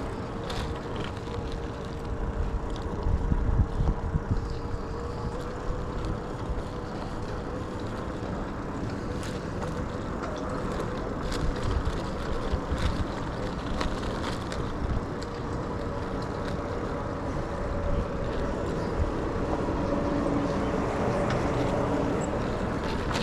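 Riding along on an e-bike: wind and road rumble on the mic, with a steady thin whine throughout and a few scattered clicks and rattles.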